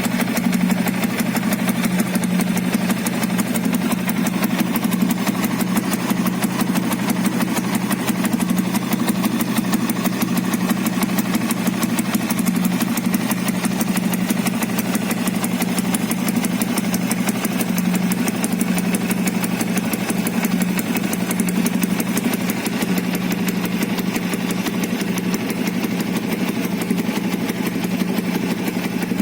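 Yamaha Vixion New motorcycle's single-cylinder four-stroke engine idling steadily through a fitted Suzuki Satria FU exhaust, which sounds much like the stock exhaust.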